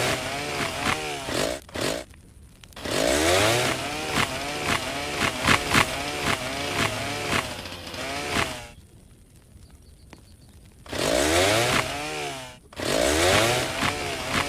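Two-stroke chainsaw cutting a tree, revving up hard in four runs with its pitch wavering as it works. There are short lulls between the runs and a longer one of about two seconds past the middle.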